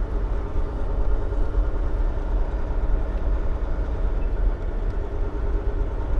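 Dump truck's diesel engine running steadily at low speed, a continuous low rumble.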